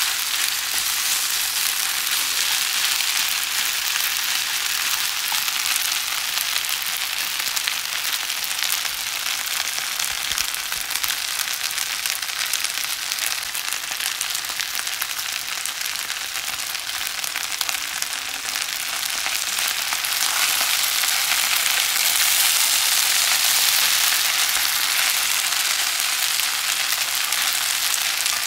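Yakisoba noodles, cabbage and meat sizzling in a hot frying pan as they are stir-fried with chopsticks: a steady frying hiss that eases slightly midway and grows louder again after about twenty seconds.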